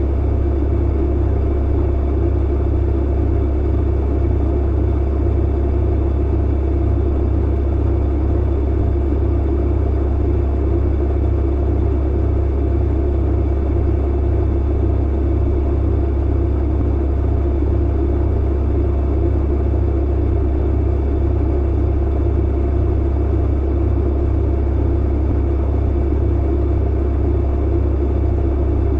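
Clothes dryer running: a steady deep hum under an even rushing noise.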